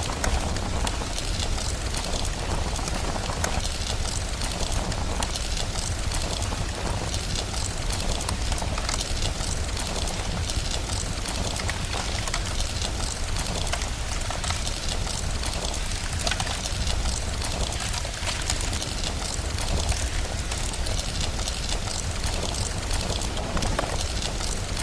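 Steady rain with a crackling wood fire, dense fine crackles over an even hiss and a deep steady rumble underneath.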